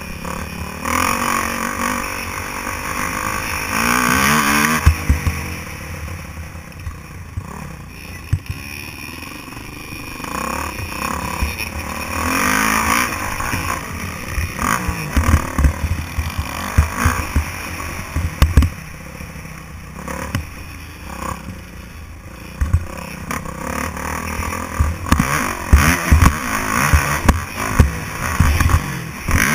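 Motocross motorcycle engine racing, revving up and down as it accelerates and backs off, with repeated low thumps throughout.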